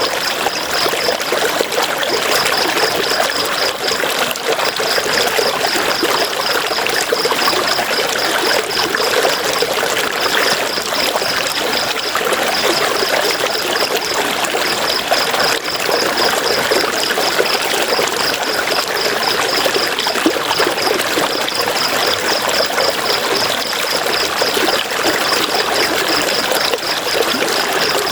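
River water running and splashing steadily over rocks. A high, rapid chirping comes and goes over it in runs of a second or two.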